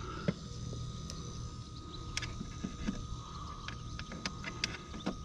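Electric drill running steadily, drilling out a hole in a metal bracket: a steady whine over a low hum, with a few small clicks.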